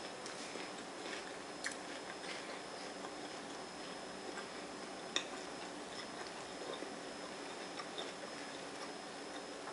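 Quiet eating sounds of chewing lettuce tacos with the mouth closed: a few sharp clicks and small crunches, the loudest about five seconds in, over a steady faint room hum.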